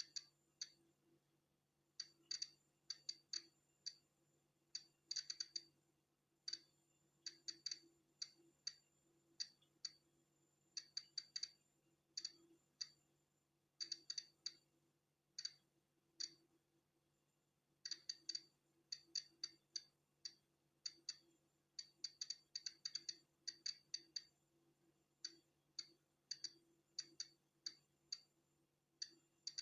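Polon EKO-C digital Geiger counter clicking at irregular, random intervals as it registers natural background radiation. The clicks are sharp and high, sometimes several in quick succession and sometimes with a gap of a second or more, over a faint steady hum.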